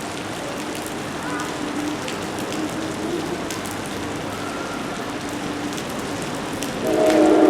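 Steady rain falling, with a faint steady hum under it. Near the end a train horn sounds loudly, a chord of steady tones.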